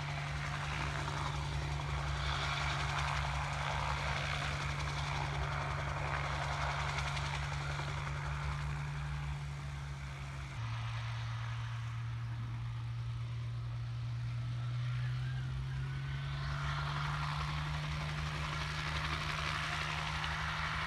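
Crop-dusting helicopter's rotor and engine drone, with a fast, even beat from the rotor blades underneath. About halfway through the pitch drops suddenly, then slowly rises again over the next several seconds.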